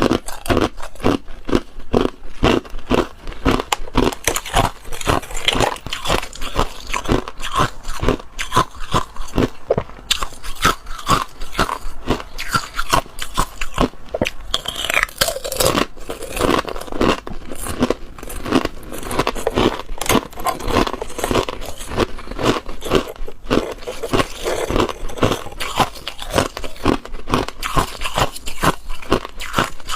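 Ice being bitten and chewed close to the microphone: a steady run of crunches, about two to three a second.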